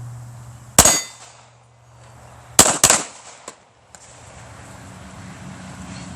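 Three gunshots at steel targets, one about a second in and two close together near three seconds, with the clang of steel plates ringing after the shots. Two fainter clicks follow.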